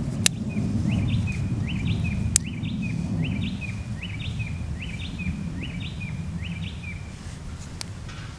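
Low rumble of thunder and rain, slowly fading, with a bird calling about a dozen times over it, each call a quick upward note with a short level tail. Three sharp ticks stand out, near the start, a couple of seconds in and near the end.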